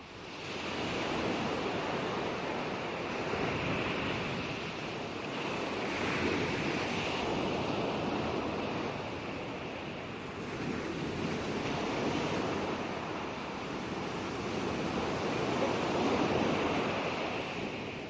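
Ocean waves breaking and washing on the shore, a steady rushing surf that swells and eases every few seconds.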